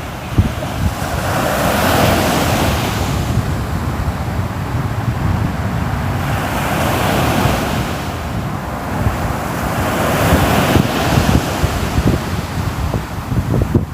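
Ocean surf: waves washing in, the rush swelling and fading about three times, over a constant low rumble.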